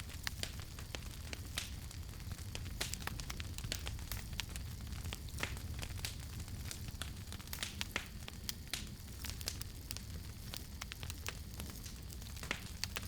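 Campfire crackling: irregular sharp pops and snaps, several a second, over a low steady rumble of the burning fire.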